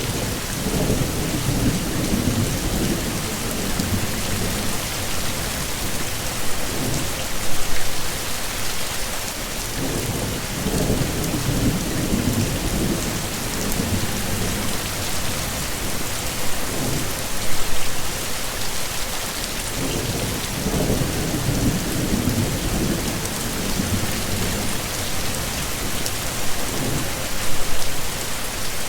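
Heavy rain falling steadily, with low rumbles of thunder swelling and fading several times.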